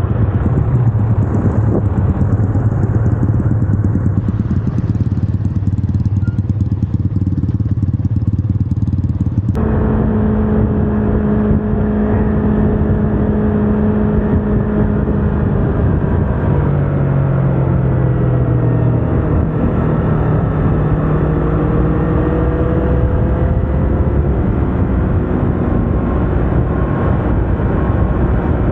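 Yamaha R25's parallel-twin engine running on the move. For the first third it is a muffled low rumble; about a third of the way in the sound changes abruptly to a clearer engine note that holds steady, drops in pitch, then climbs again.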